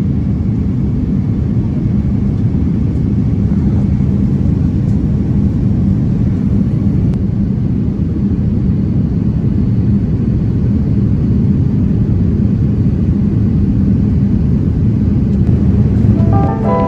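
Steady low rumble of an airliner's cabin noise, jet engines and airflow in flight. Music with a simple melody comes in near the end.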